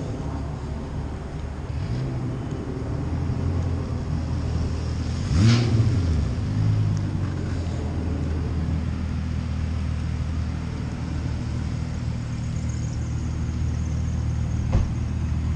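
Car engine running with a steady low drone, with a brief louder swell about five and a half seconds in and a single sharp tick near the end.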